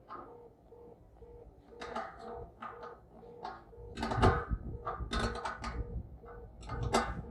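Faint short electronic beeps repeating steadily about twice a second, under irregular knocks and clatter of handling, loudest about four seconds in and again near the end.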